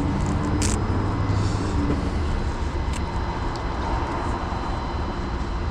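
Steady low rumble of an idling vehicle engine, with a few brief clicks.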